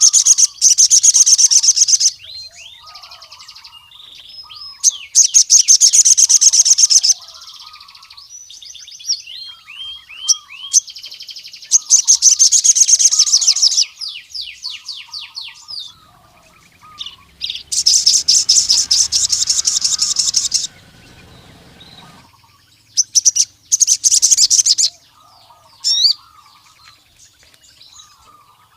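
Male ruby-cheeked sunbird (sogon) singing in full voice: five loud, very fast high trills of about two seconds each, with softer quick chirping notes in between.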